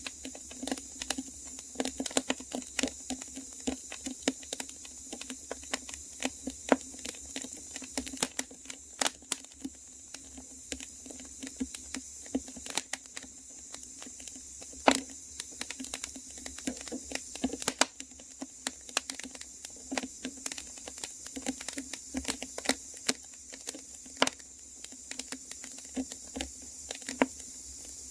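Fire crackling: a steady scatter of irregular sharp snaps and pops, some louder than the rest.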